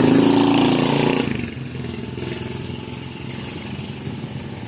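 A motor running loudly for about the first second, then dropping suddenly to a quieter steady rumble.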